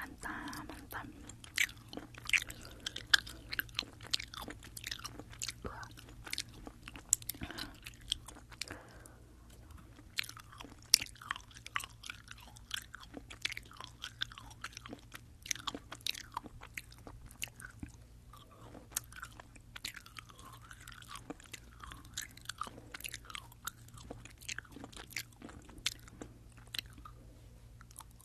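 Close-miked chewing of sugar-coated Fini sour jelly belts: wet, sticky mouth clicks and smacks coming in quick, irregular runs, picked up on a binaural microphone.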